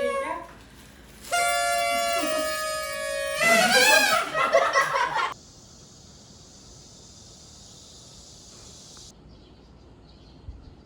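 Party horn blown in one steady toot of about two seconds, followed by laughter, then a steady high hiss for about four seconds.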